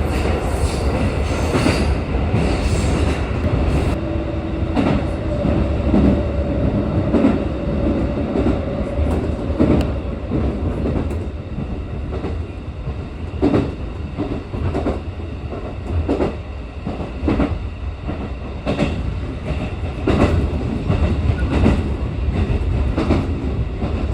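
Train running on the line, heard from inside a passenger car: a steady rumble with the clack of the wheels passing over rail joints at irregular intervals. A short steady hum sounds for a few seconds about a third of the way through.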